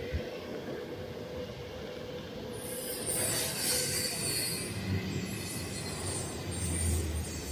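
Metal grinding, a high screeching hiss that swells about three seconds in, over a steady hum and a low rumble.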